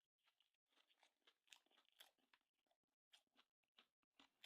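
Faint close-up chewing with irregular crunches as a sushi roll with a crispy outside is eaten.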